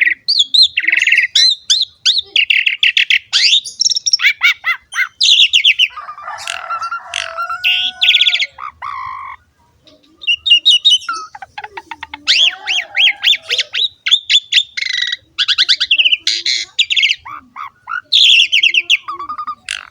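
Asian pied starling (jalak suren) singing an energetic, varied song of rapid repeated chattering notes, squawks and whistles, with a short pause about halfway through.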